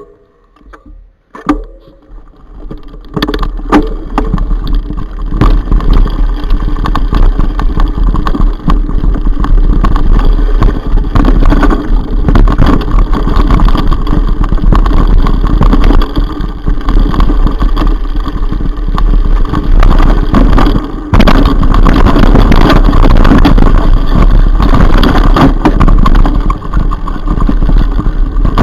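Loud wind rumbling over the microphone and a mountain bike rattling over rough ground at speed, starting about three seconds in, with a short dip about 21 seconds in.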